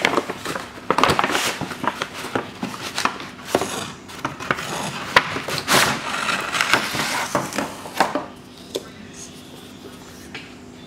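Packaging being handled as a gift is unpacked: paper rustling with light knocks and taps of a cardboard box, busy for about eight seconds and then dying down.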